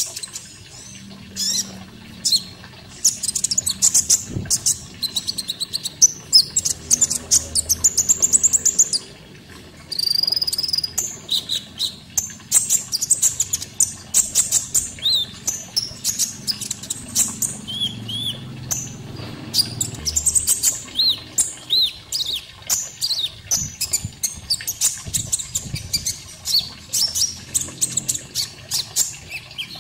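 Konin songbirds calling in a fast, busy stream of sharp chirps and short whistled notes, some sliding up or down, over a faint steady sound of water. This is the kind of tutor recording played to cage birds to teach them the song.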